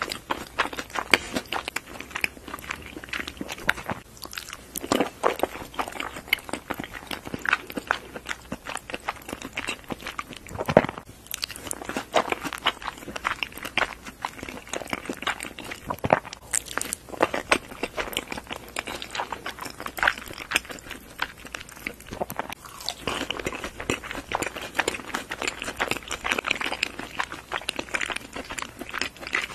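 Close-miked chewing of takoyaki: a continuous run of small wet clicks and soft crunches from the mouth, with no pauses.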